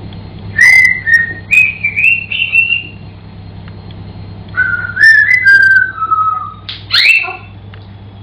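African grey parrot whistling two short phrases of clear notes, the first stepping upward, the second rising briefly then stepping down, followed about seven seconds in by a quick upward-swooping whistle.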